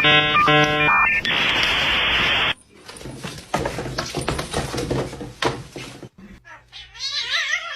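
Edited sound effects: a quick run of electronic beeps and a burst of hiss in the first two and a half seconds, then scattered clicks and knocks, and a cat meowing near the end.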